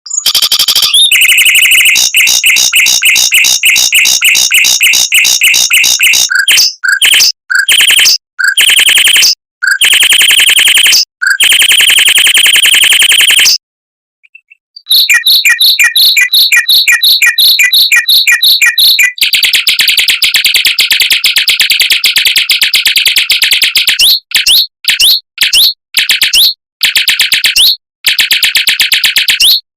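Mockingbird singing fast, tightly packed trilled rolls: long runs of rapidly repeated high notes, many a second, broken by short gaps and by a pause of about a second midway.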